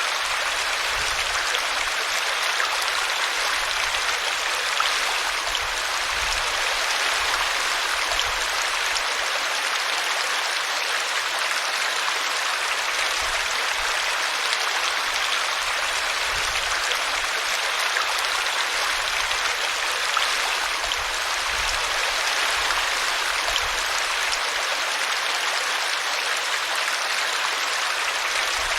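Stream water flowing steadily, an even rushing hiss with no breaks.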